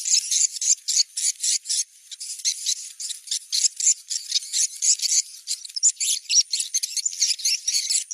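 Swiftlet call recording played as a location-check lure: dense, rapid high-pitched chirping and twittering, several chirps a second, over a thin steady high tone.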